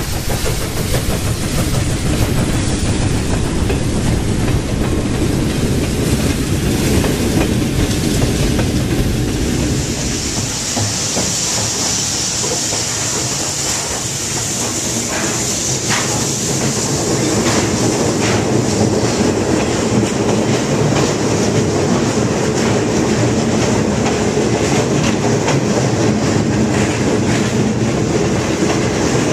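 A steam-hauled passenger train's carriages rolling steadily on standard-gauge track, the wheels clicking over rail joints. A high hiss joins in from about ten seconds in and fades a few seconds later.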